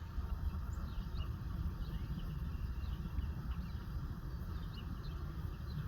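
Low, steady rumble of diesel locomotives idling on a stopped freight train, with faint bird chirps over it.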